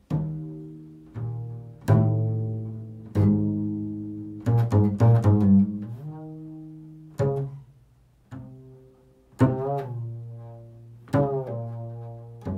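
Improvised music of low plucked string notes, each struck sharply and left to ring and fade, with a quick run of several notes about halfway through.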